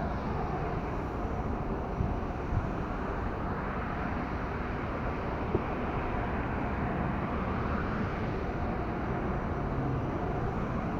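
Steady engine and road noise inside the cab of a moving vehicle, with a few light knocks.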